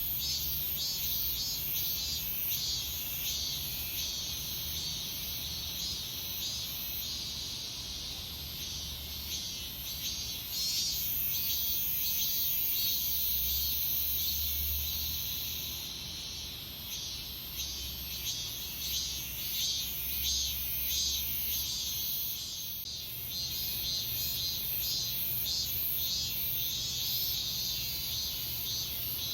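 Cicadas singing in a dense chorus of pulsing high-pitched buzzes. A continuous shrill whine rises out of it about ten seconds in and lasts several seconds, over a faint low hum.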